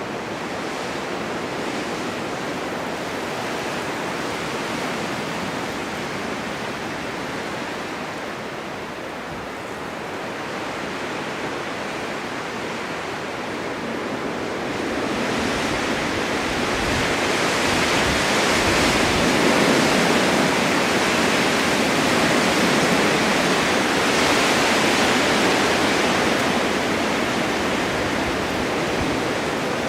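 Blizzard wind blowing steadily with a rushing hiss, gusting stronger about halfway through, with a low rumble of buffeting in the strongest gust.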